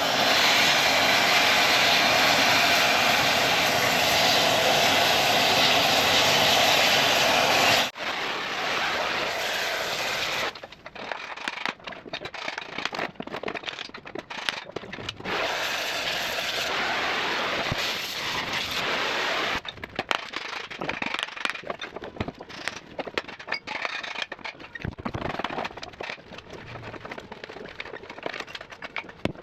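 Cutting torch hissing and crackling as it cuts through steel: a steady hiss for about eight seconds that cuts off abruptly, then broken, on-and-off hissing.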